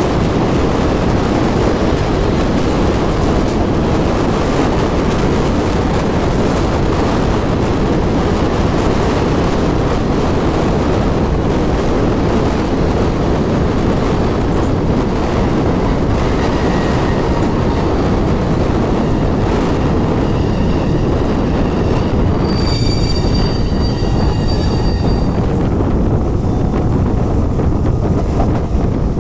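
Mumbai suburban local train running at speed, heard from its open doorway: a steady rumble of wheels on the rails, with the wheels squealing in high, shrill tones for a couple of seconds about three-quarters of the way through.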